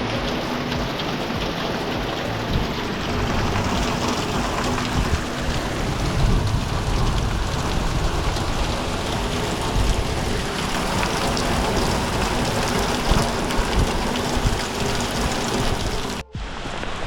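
Heavy thunderstorm downpour: a dense, steady hiss of rain, with an uneven low rumble of wind gusts hitting the microphone. The sound drops out for an instant about a second before the end.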